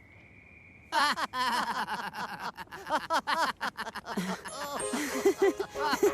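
A faint steady high tone, then about a second in a burst of lively cartoon soundtrack: music with bouncy, laughter-like voices.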